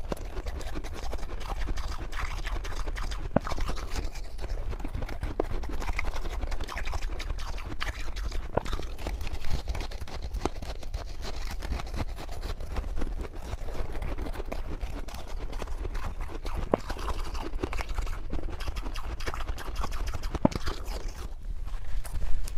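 Freezer frost being chewed and crunched in the mouth, picked up close by clip-on microphones: a run of small crisp crackles and clicks over a steady low hum.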